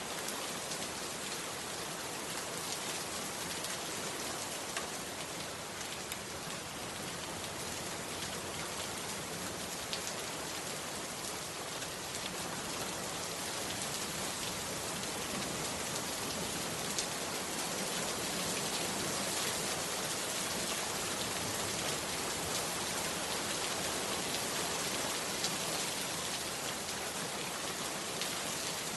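Steady heavy rain falling, an even hiss with occasional distinct drop ticks.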